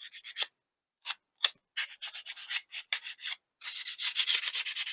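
Hand sanding on the plastic parts of a 1978 MPC X-Wing model kit, taking off old dried glue: quick back-and-forth scratchy strokes, with a short pause about half a second in and a denser run of strokes near the end.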